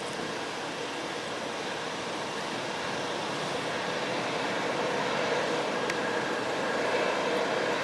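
Jet engine noise from the Airbus A321-211's CFM56 turbofans heard at a distance: a steady rushing sound that slowly grows louder, with a faint whine coming in near the end.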